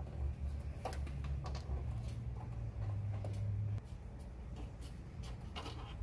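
A screwdriver working screws out of the inside door panel of a 1955 Chevy pickup: faint clicks and scraping over a low hum that drops away about four seconds in.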